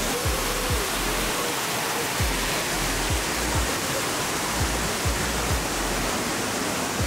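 Waterfall rushing loudly and steadily, with irregular low thumps every half second to a second or so.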